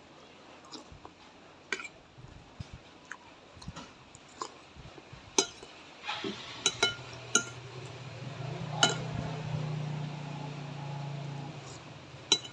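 Spoon clinking against a bowl and chewing while eating noodle soup, with sharp clinks scattered throughout. A low steady hum comes in about six seconds in.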